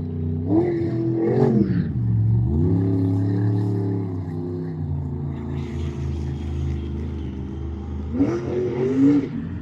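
Monster truck engine revving hard, its pitch climbing, dropping back and climbing again, then holding steady before another burst of revs near the end.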